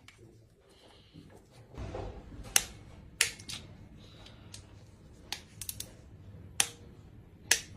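Irregular sharp clicks and clinks of hard objects, about six of them spread over several seconds, over a low rumble.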